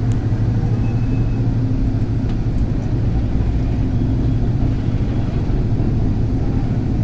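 Steady low rumble and hum of a Manila LRT Line 2 train car, even throughout with no clear change.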